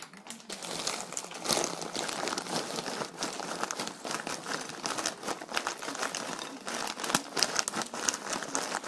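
Packaging being handled and crinkled: a dense, continuous run of small crackles with sharper snaps here and there.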